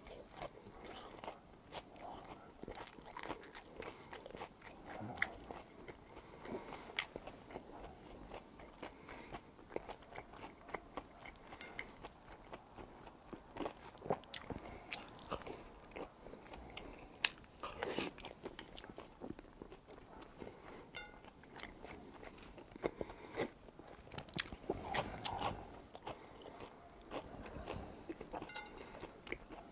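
Close-up eating sounds: a person biting and chewing tteokbokki and batter-fried cuttlefish, with crunches and irregular sharp little clicks between softer wet chewing. The sharpest click comes a little past halfway.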